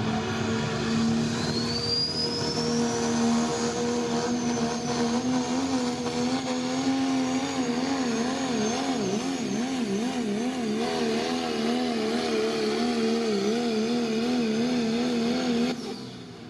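Modified turbocharged diesel pickup engine at full throttle pulling a sled. A high turbo whine rises in the first few seconds. In the second half the engine pitch wavers rapidly up and down as the wheel speed changes, then the engine cuts off abruptly near the end as the driver lifts.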